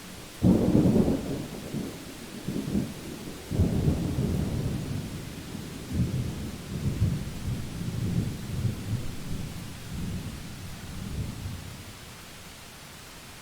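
Thunder: a sudden loud clap about half a second in, followed by low rumbling that rolls on in several swells and dies away after about ten seconds.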